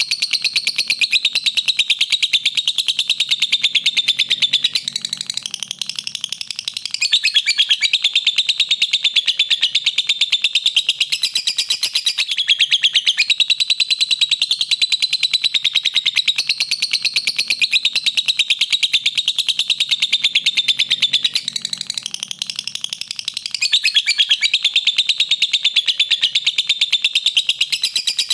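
Lovebird singing a long, unbroken trill of very rapid, high-pitched chirps, dipping briefly in loudness twice.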